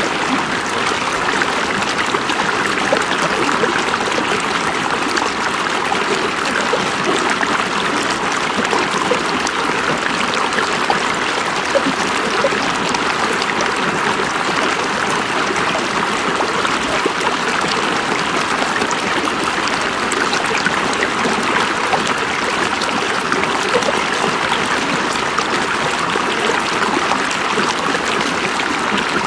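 River water flowing and babbling over rocks: a steady, even rush with fine gurgling detail throughout.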